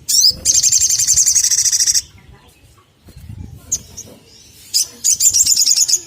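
Olive-backed sunbird calling: two loud, rapid, high-pitched trills of fast repeated notes, the first about two seconds long right at the start, the second about a second long near the end.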